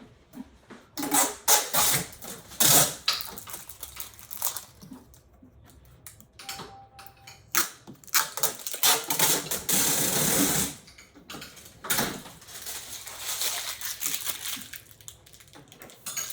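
Packaging being handled during an unboxing: irregular rustling, scraping and crinkling bursts, with a longer unbroken rustle about ten seconds in.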